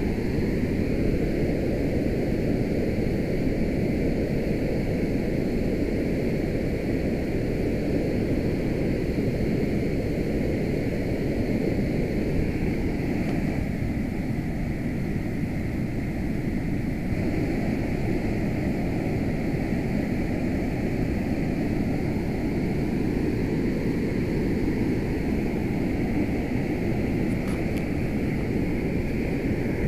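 Typhoon-swollen, muddy river in flood, pouring over a weir: a loud, steady rushing of water, deepest in the low range.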